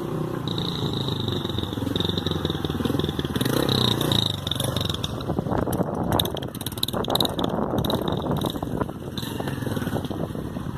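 Honda CG Fan motorcycle's single-cylinder four-stroke engine running through a newly fitted exhaust pipe, revved up and back down about three to four seconds in, then running rougher and choppier.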